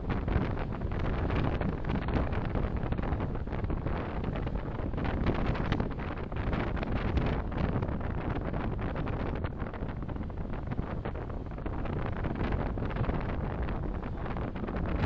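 Steady road and engine rumble of a moving car, picked up inside the cabin by a dashcam microphone.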